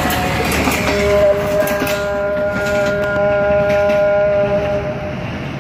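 Passenger train's coaches clattering past close by, then a steady multi-tone train horn held for about four seconds while the running noise fades.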